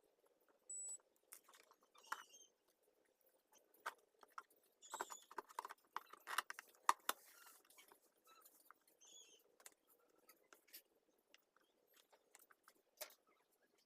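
Faint, irregular clicks and rattles of small parts and tools being handled while a Bluetooth speaker module is fitted, busiest around the middle, with a few brief high chirps.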